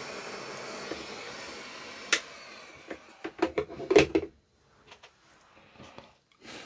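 Hot air rework station's blower hissing and fading away as it winds down, followed by a cluster of sharp clicks and knocks of tools being handled and set down on the bench, loudest about four seconds in.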